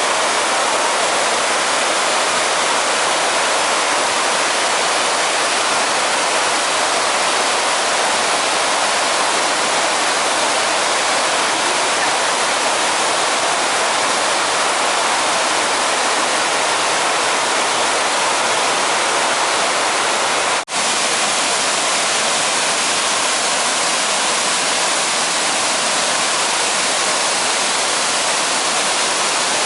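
Fukiware Falls, a waterfall, making a loud, steady rush of falling water. The sound cuts out for an instant about twenty seconds in.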